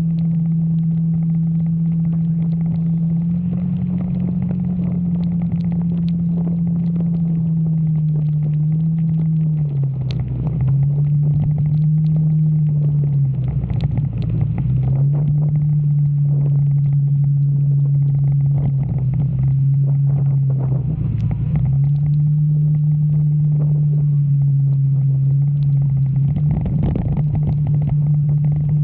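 Motorcycle engine running steadily under way, its note dropping briefly about a third of the way in, around halfway and again about three quarters through as the throttle eases, over a constant rush of wind and road noise.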